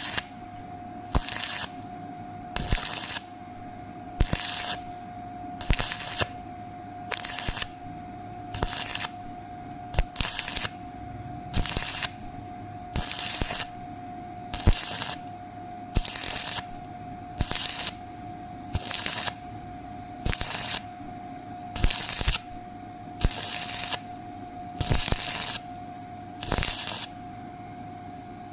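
Electric arc welding crackling in short, evenly spaced bursts, about one every three-quarters of a second, over a steady tone.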